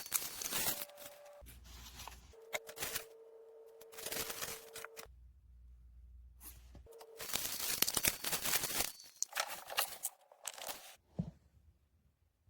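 Irregular bursts of rustling, tearing-like handling noise with short quiet gaps between them, dying away near the end.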